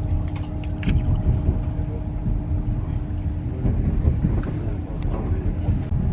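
Passenger train running, heard from inside the carriage: a steady low rumble with a constant hum.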